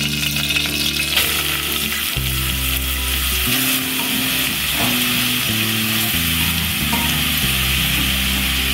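Grated carrot sizzling in hot ghee in a steel pot: a steady frying hiss that grows stronger about a second in as the carrot goes into the fat.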